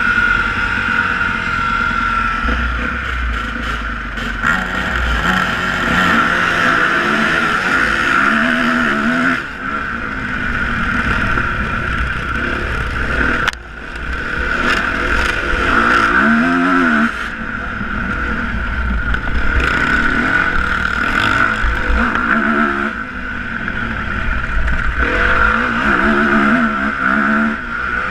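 Motocross bike engines revving, the pitch rising and falling again and again, with a brief drop about halfway.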